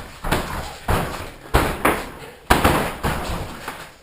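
Heavy thuds and slams at irregular intervals, each sudden and fading away, typical of bodies landing flips and tricks on the floor of a house, with some voices.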